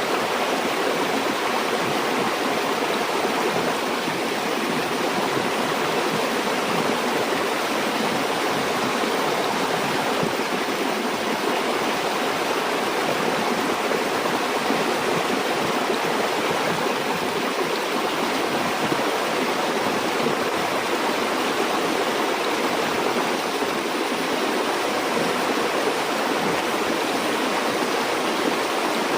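Stream water flowing over rocks: a steady, unbroken rush.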